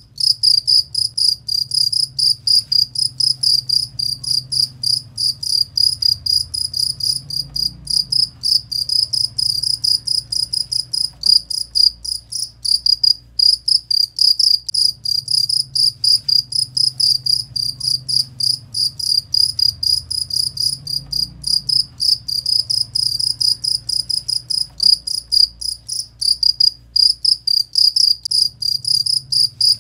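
A cricket chirping in a fast, even, unbroken rhythm of short high-pitched pulses, several a second.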